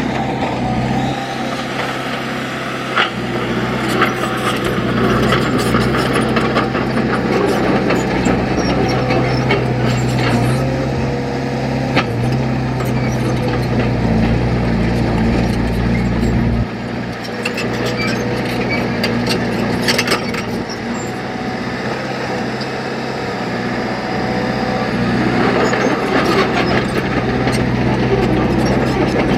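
Heavy diesel earthmoving machinery running steadily, with scattered sharp clanks and knocks; the engine note shifts about a second in and again just past halfway.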